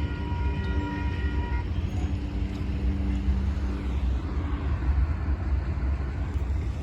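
Union Pacific freight train rolling past, a steady low rumble, with a steady high-pitched tone that stops about a second and a half in.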